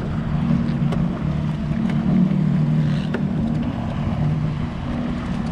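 A watercraft engine running steadily, with wind buffeting the microphone.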